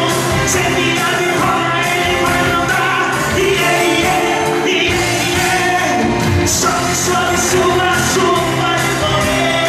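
Gospel pop song playing: a full band with sung vocals, steady and loud.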